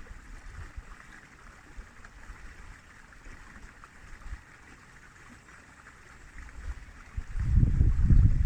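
River water flowing steadily. About seven seconds in, wind starts buffeting the microphone in loud low gusts.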